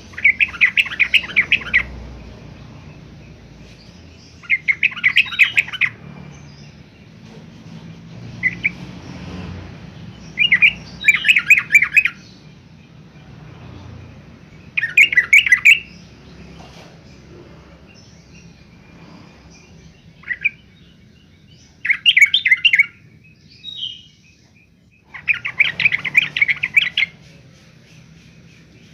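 Yellow-vented bulbul singing: short bursts of quick, bubbling chattering notes, each a second or two long, repeated every few seconds.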